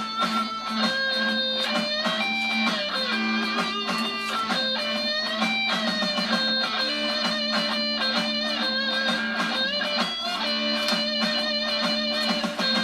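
Recorded rock song playing: an electric guitar solo of held, bending notes over a steady backing.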